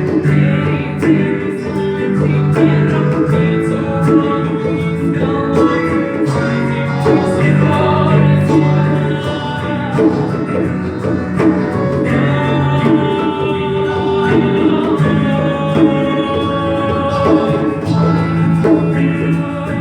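Small band playing a slow song: electric piano and guitar holding chords over hand percussion and a shaker, with a voice singing.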